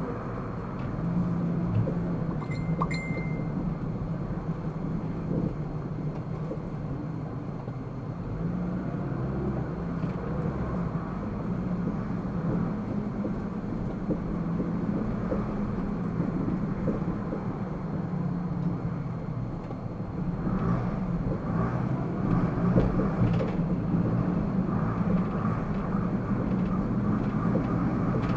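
Car driving through city traffic, heard from inside the cabin: steady engine and road rumble. A short beep sounds about three seconds in.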